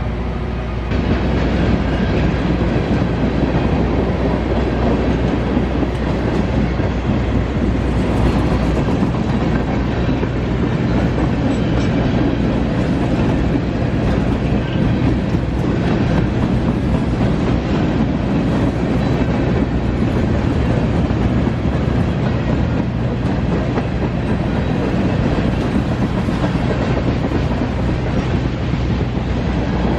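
CSX freight train cars rolling past, wheels clattering over the rails in a loud, steady rumble that swells about a second in.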